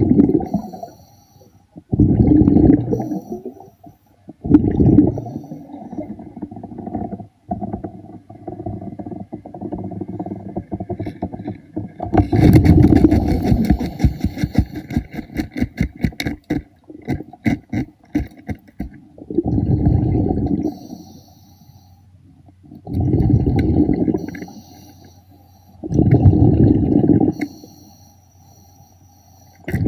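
Scuba diver breathing underwater: loud bubbling bursts of exhaled air from the regulator every three to four seconds, with a stretch of rapid clicking and crackling near the middle.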